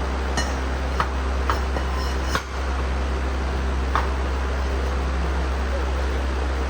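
Workshop background: a steady low hum with a handful of sharp clicks and taps from tools on engine parts, about five of them in the first four seconds.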